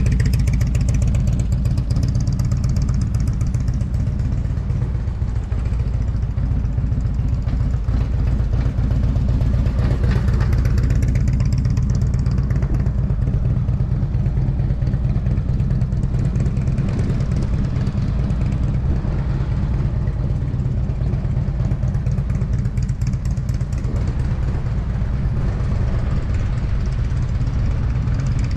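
Motorcycle engine running during slow cone-weaving practice, its sound swelling and fading several times as it comes and goes, over a steady low rumble.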